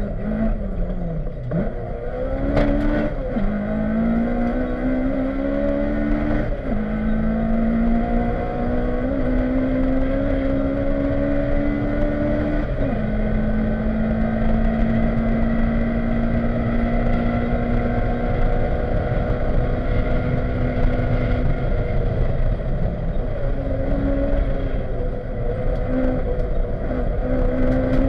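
Honda Civic rally car's engine at racing revs, heard from inside the cabin. The pitch climbs and drops sharply at two quick upshifts in the first half, holds high and steady for a long stretch, then dips briefly and climbs again near the end, over steady road noise.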